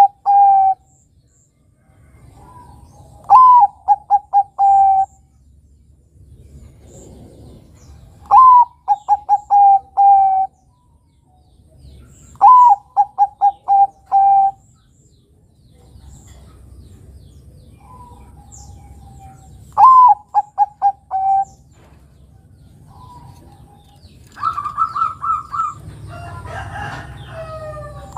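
Zebra dove (perkutut, Bangkok type) cooing. It repeats a phrase about every four seconds: a falling opening note, then a quick string of short coos ending on a slightly longer one. Near the end comes a busier stretch of overlapping, higher calls.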